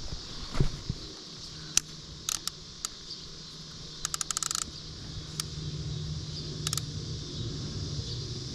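Fishing reel clicking in short runs as a topwater plopper lure is reeled in, with a quick rattle of clicks about four seconds in. A steady insect chorus and a low steady hum run underneath.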